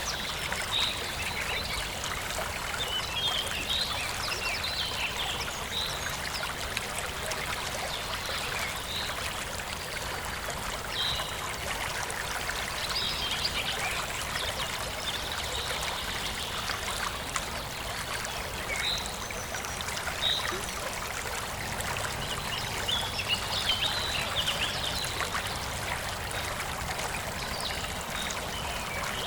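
Small forest stream flowing and trickling steadily, with birds chirping briefly now and then.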